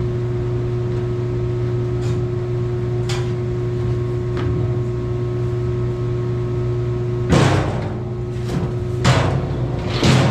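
Steady hum of a shop space heater running, with a few light knocks and then three louder clunks in the last few seconds as the sheet-metal box cabinet on casters is handled.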